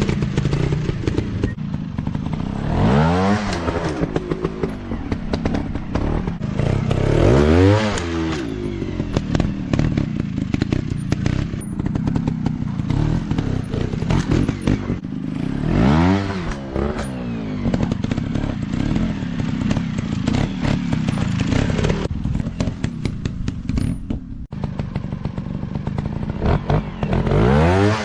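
Off-road dirt bike engines running, revving up and dropping back about four times, with scattered clattering knocks throughout.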